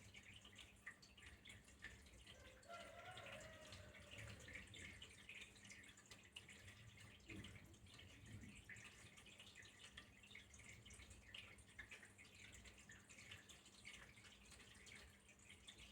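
Faint flowing water, trickling with many small drips and splashes that go on without pause.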